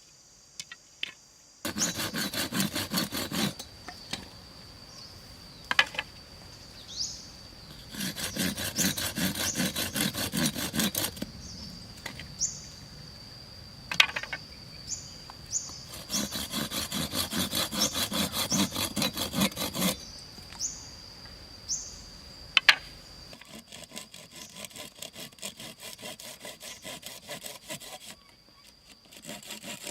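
Wood being cut with quick back-and-forth strokes in three spells of a few seconds each, with a few sharp knocks between them. An insect's steady high buzz runs behind for most of it.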